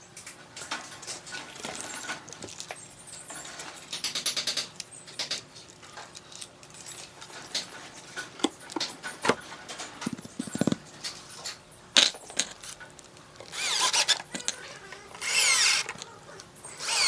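Short runs of a power drill, about a second each, in several bursts mostly near the end, between scattered clicks and knocks of tools and parts being handled.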